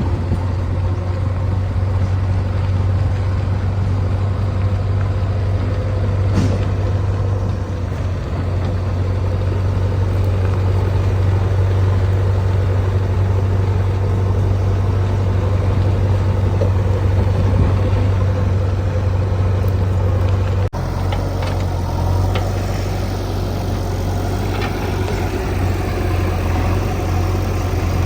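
Heavy diesel machinery engine running steadily, a deep continuous drone, with a brief dropout about three-quarters of the way through before it carries on.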